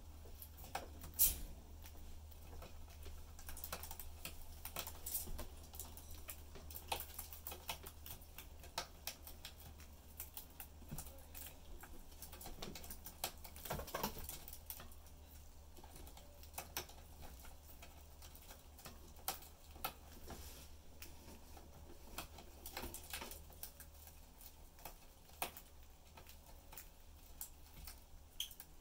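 Budgies pecking and cracking seeds and moving about the cage: irregular small clicks and taps, a few louder than the rest, over a low steady hum.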